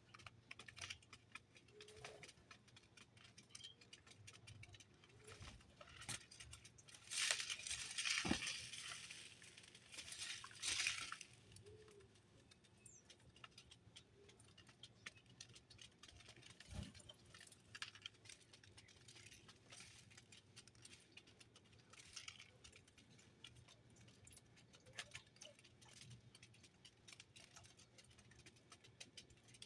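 Small birds feeding: faint scattered pecks and taps on seed and the feeder, with a louder rustling burst for a few seconds about a quarter of the way in.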